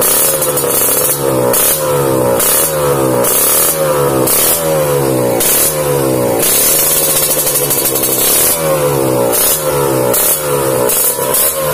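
Kawasaki Ninja 150's two-stroke single-cylinder engine revved repeatedly through an aftermarket racing exhaust, loud, in quick throttle blips about one every 0.7 s with a longer held rev midway.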